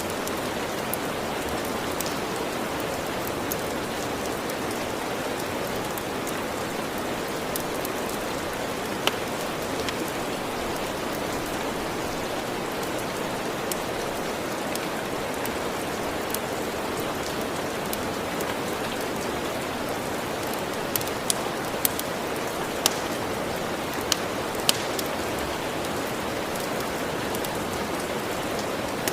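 Steady heavy rain, a dense even hiss, with a wood fire crackling: single sharp pops now and then, and a quick run of them a little past two-thirds of the way through.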